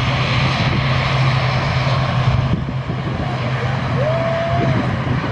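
Aircraft engines running with a steady low drone over broad engine noise. A brief rising, then level tone sounds about four seconds in.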